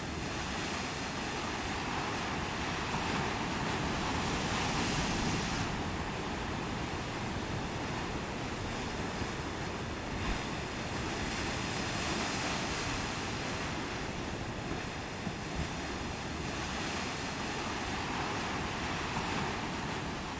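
Ocean surf: a continuous wash of breaking waves that swells and eases several times, with wind buffeting the microphone.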